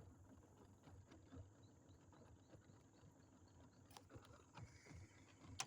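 Near silence with faint, irregular light tapping, then a sharper click about four seconds in and another near the end.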